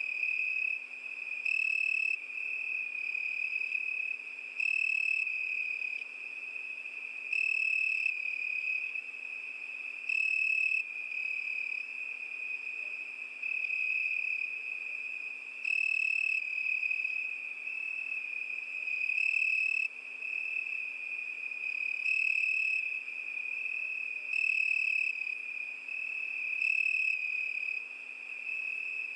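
Cricket chirping: a steady high-pitched trill that swells into louder bursts about every two to three seconds.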